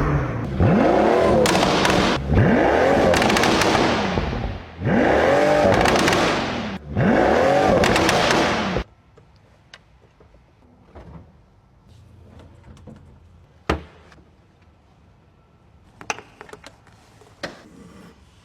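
Pagani Huayra's twin-turbo V12 revved four times in a row, each rev climbing and falling back in pitch, then stopping suddenly. A few sharp clicks follow in the quiet.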